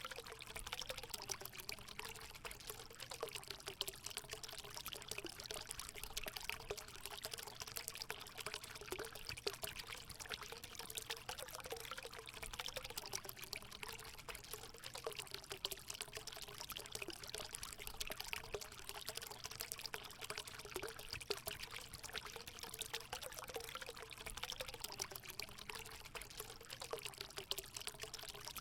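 Natural water running steadily into a hot spring pool: a continuous pouring splash with a gurgle beneath it.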